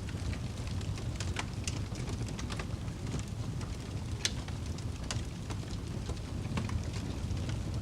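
Fire crackling, with irregular sharp pops over a steady low rumble. The loudest pop comes about four seconds in.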